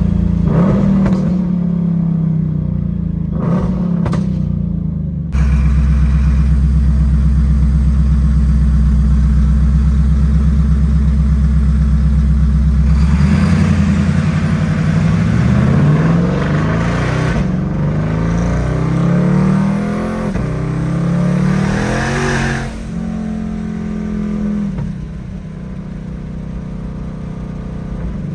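Twin-turbo 2020 Ford Shelby GT500 5.2-litre V8 on the move: a steady low drone while cruising, then from about halfway several pulls with the pitch rising and dropping through gear changes, with short rushes of noise among them, before it settles back to an even running sound.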